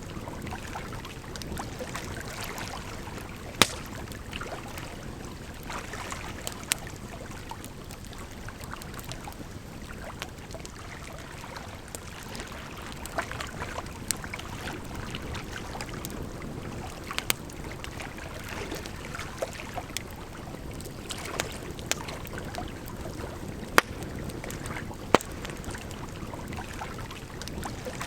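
Campfire crackling with irregular sharp pops over steady running water.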